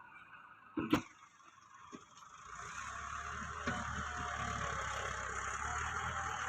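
A single sharp knock about a second in, then from about two and a half seconds a tractor's diesel engine comes in, running steadily.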